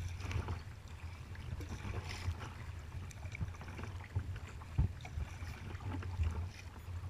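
Kayak paddling: paddle blades dipping and water splashing against the hull, over a steady low rumble. A sharper knock comes about five seconds in.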